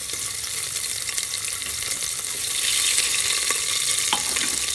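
Onions, green chillies and ginger-garlic paste sizzling in hot mustard oil in an open aluminium pressure cooker: a steady frying hiss that swells a little about halfway through, with a few faint clicks near the end.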